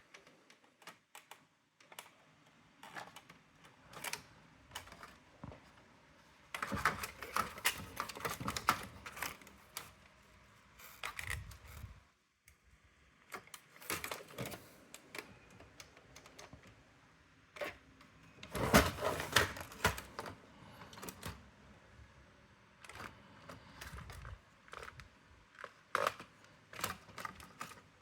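Irregular clicking and clattering of the plastic and metal parts of a Brother AX-425 electronic typewriter being handled and taken apart, with louder spells of clatter about a quarter of the way in and again just past the middle.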